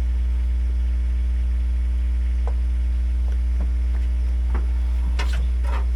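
An engine idling steadily, a low even drone. A few faint knocks sound over it, with a brief clatter near the end.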